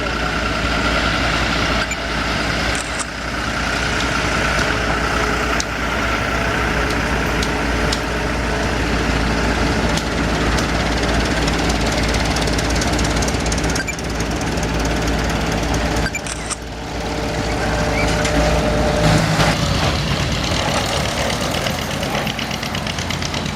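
Farm tractor engines running steadily as a line of parade tractors rolls past, with a brief dip in level about two-thirds of the way through.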